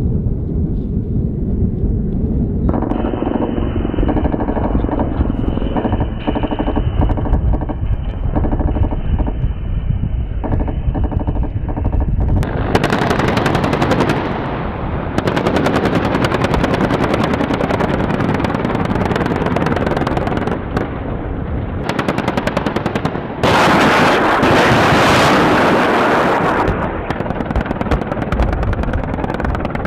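Automatic gunfire: long, rapid bursts over a continuous low rumble, the bursts starting about midway and the loudest near the end, typical of an attack helicopter's chain gun.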